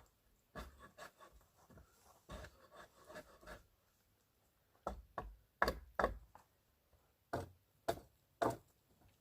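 An eating utensil scraping and knocking against a camp dish in a string of short, irregular strokes, louder and sharper in the second half.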